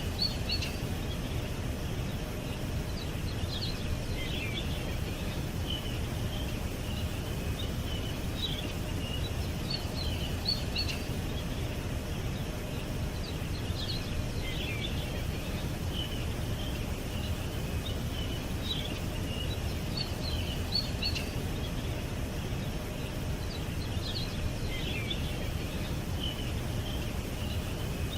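Small birds chirping and twittering in short scattered phrases over a steady low background rumble.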